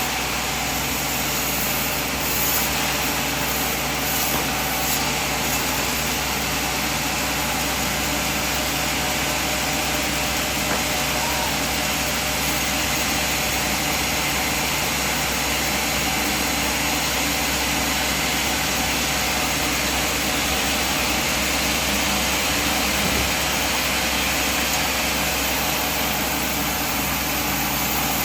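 A sawmill machine running steadily, a constant mechanical drone with no clear change in load.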